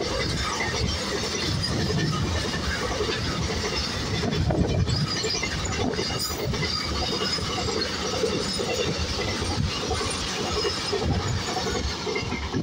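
Double-stack container train's wagons rolling past at high speed: steady, loud noise of steel wheels on rail. The last wagon and brake van pass near the end.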